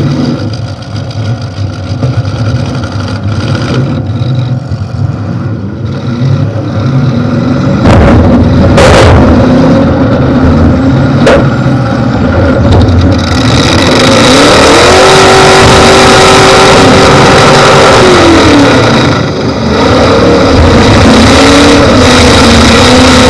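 Demolition derby car's engine running through short open exhaust stacks, revved hard; about 14 seconds in it climbs to high revs, holds there for a few seconds and drops back. Two sharp bangs around 9 and 11 seconds in.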